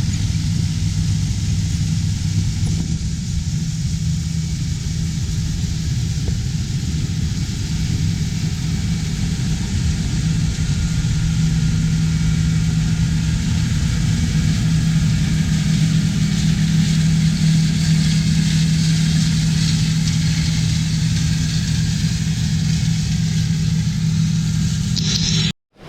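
Large diesel farm machinery running steadily under load in a field. The low engine tone shifts about three seconds in, and the sound cuts off abruptly near the end.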